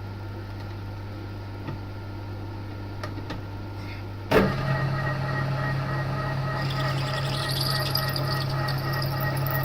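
TOS milling machine running with a steady hum while a carbide drill bit cuts into a snapped stainless-steel exhaust stud. About four seconds in a sharp clunk comes, and the hum steps up louder and higher. From about two-thirds of the way, a high, scratchy squeal of the bit cutting the steel rides over the hum.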